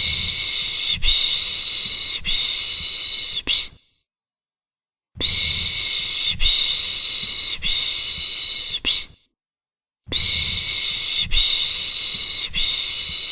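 Soothing 'piş piş' shushing for a baby: long hissing 'shh' sounds, each run made of about three shushes joined together, lasting about four seconds, then about a second of silence before the next run. Three runs are heard.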